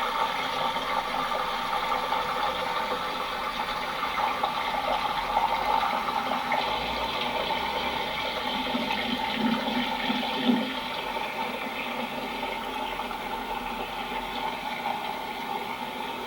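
Thermal spring water flowing and bubbling steadily, with one brief louder splash or knock about ten seconds in.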